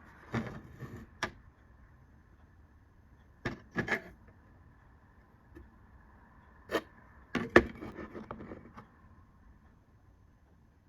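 Computer parts being handled on a hard surface: clicks and knocks in four short clusters, the busiest and loudest about three-quarters of the way through, over a faint steady hum.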